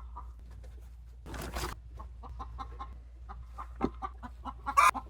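Chickens clucking: a quick run of short clucks through the second half, with a brief noisy burst about a second and a half in and a louder one near the end.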